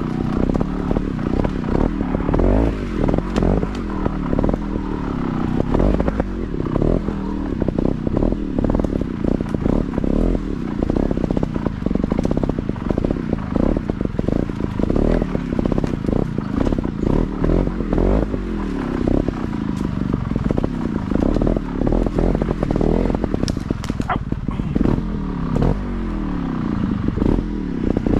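Motorcycle engine running as it is ridden slowly over rough ground, revving up and falling back again and again with the throttle, with frequent knocks and rattles.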